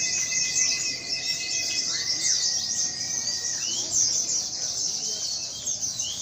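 Many oriental white-eyes (pleci) singing at once: a dense chorus of fast, high chirps overlapping without pause, with a few longer whistled notes among them.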